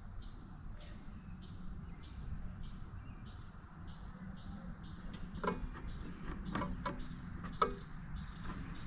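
Faint steady background with a high, rhythmic insect chirping, about two a second, and three light knocks or clicks in the second half.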